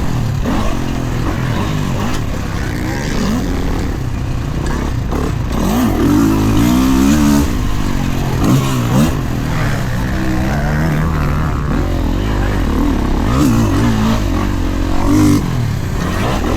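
Dirt bike engine revving hard and easing off again and again, the pitch climbing and falling as the rider goes on and off the throttle around a motocross track.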